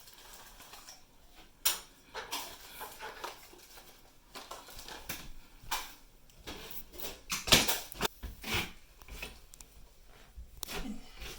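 Scattered knocks, clinks and scrapes of tools and parts being handled during the fan installation, with a cluster of sharper knocks from about seven to nine seconds in.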